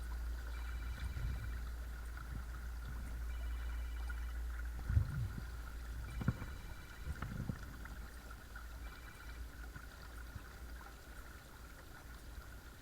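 Watersnake T24 12 V electric trolling motor running steadily with a thin, constant whine over water gurgling along the kayak hull. There is a low rumble for the first few seconds and a few dull knocks around the middle.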